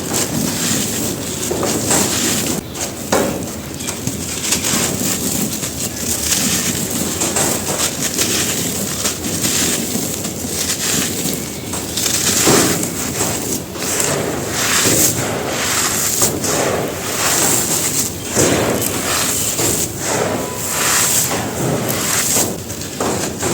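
Lumps of dry, gritty red dirt crumbling and breaking on a hard floor: a continuous run of crunching with many small, sharp cracks.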